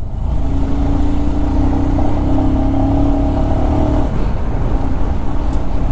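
Motorcycle engine running at a steady pace over a rough gravel track, with a low rumble underneath. Its note holds steady for about four seconds, then eases off.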